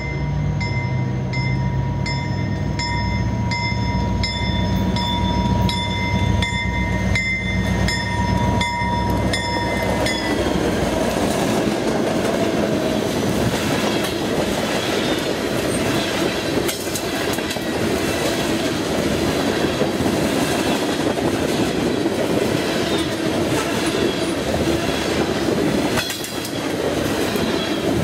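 A train passing close by. For about the first ten seconds the locomotive's engine rumbles under a held horn, with regular clicks of wheels over rail joints. Then the horn stops and the cars roll by in a steady clatter of wheel clicks with some wheel squeal.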